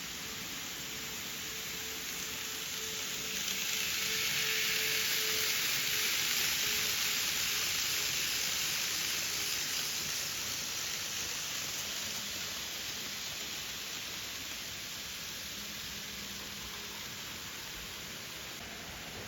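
N-gauge model train running along the track, a steady rolling hiss that swells as it passes close and then slowly fades, with a faint motor whine early on.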